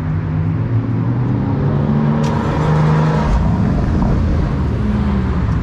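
Ford Shelby GT500's supercharged V8 pulling away at low speed. Its note rises slightly about two seconds in, then drops to a deeper, lower note about a second later.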